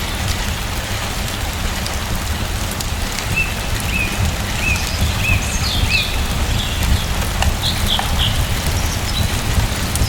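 Steady rain falling, with a low rumble underneath. Partway through, a bird chirps a run of about five short, evenly spaced notes, then a few higher calls.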